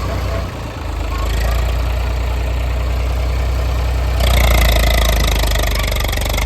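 Diesel engine of heavy farm or earthmoving machinery idling with a steady low hum, turning suddenly louder and harsher about four seconds in.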